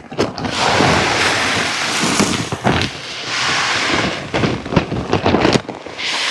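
Mixed poultry feed of corn, pellets and seeds pouring from the bag into a 5-gallon bucket: a steady rushing hiss peppered with the ticks of grains. It stops about five and a half seconds in, then one short final pour.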